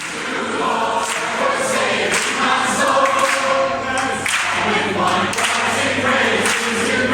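A choir of voices singing together, fading up over about the first second and then holding steady.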